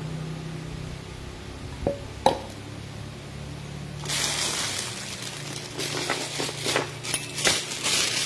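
Light handling noises of kitchen utensils: two sharp clinks about two seconds in, then from about halfway a run of irregular hissy scraping or rustling sounds, over a low steady hum.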